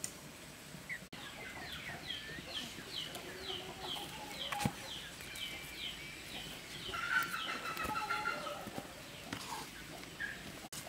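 Birds calling: a run of short, high, falling notes repeated about two or three times a second, then a louder, busier cluster of calls about seven seconds in. A single sharp knock sounds about halfway through.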